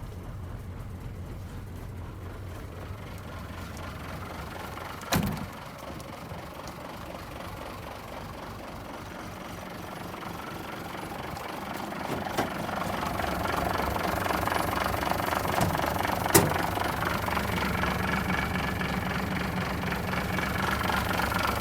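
Mitsubishi Fuso Fighter truck's 6D15 inline-six diesel engine idling steadily with a diesel knock. It grows louder about two-thirds of the way through, and there are a few sharp clunks, one about a quarter of the way in and one near the three-quarter mark.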